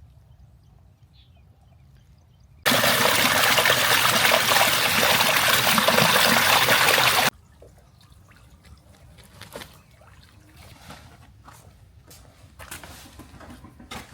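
Loud rush of pouring water that starts suddenly about three seconds in and stops abruptly four and a half seconds later, followed by faint scattered clicks and knocks.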